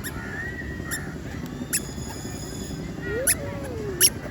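Birds calling at a zoo enclosure: several short, sharp calls and a brief gliding call over a steady background hubbub.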